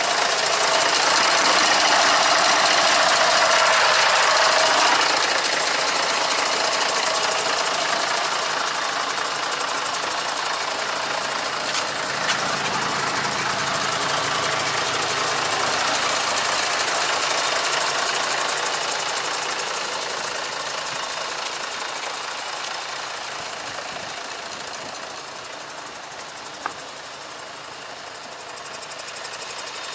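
Mercedes SK 1824 truck's V6 diesel engine running. It is loudest for the first five seconds, then grows gradually quieter. There are two short clicks, a little before halfway and near the end.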